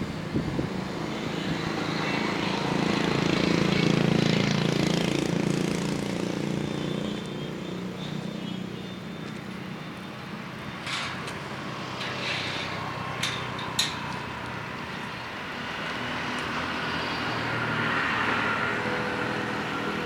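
Low rumble of passing vehicles, swelling about four seconds in and again near the end, with a few sharp clicks midway.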